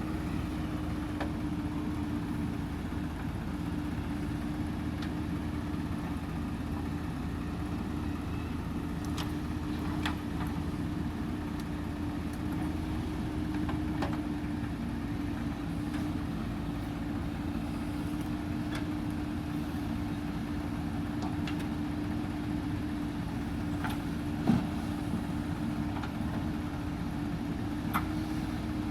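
Diesel engine of heavy earthmoving machinery running steadily at a constant speed, with a few light clanks and one sharper knock about three-quarters of the way through.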